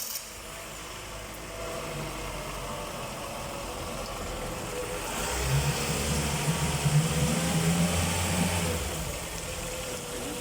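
Yamaha F115 four-stroke outboard motor running just after starting, at a steady idle. It grows louder for about three seconds past the middle, then settles back to idle.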